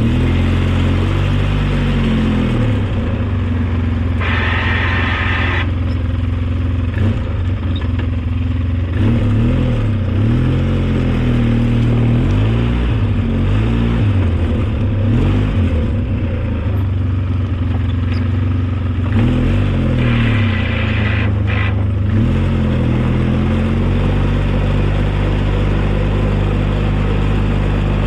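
Engine of an old snow-plowing vehicle running under load, its speed rising and falling again and again as it works. A brief harsh higher-pitched noise cuts in twice, about four seconds in and again about twenty seconds in.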